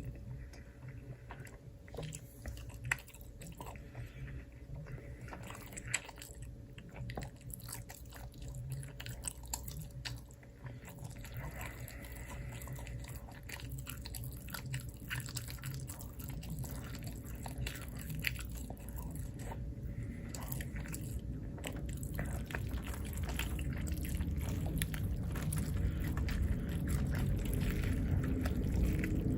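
Close-miked chewing and biting, with many small crunching clicks. A low hum grows steadily louder through the second half.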